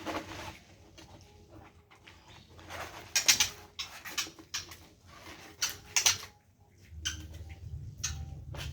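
An uneven run of knocks and scraping clatter from cleaning work. A low steady hum comes in about seven seconds in.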